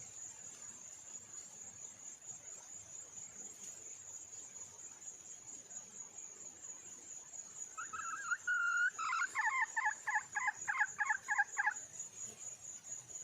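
A red junglefowl hen calls: two drawn-out notes, then a quick run of about ten clucks, roughly four a second. It comes over a steady high insect whine.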